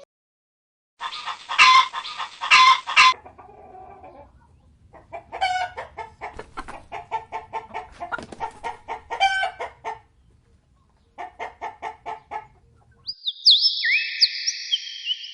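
Chickens clucking and squawking: a few loud harsh squawks, then runs of rapid clucks. Near the end a different sound begins, a string of high sliding chirps.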